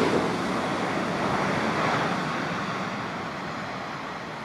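Great Northern Class 387 electric multiple unit running through the station, a steady rush of wheels and air that slowly fades as the train draws away.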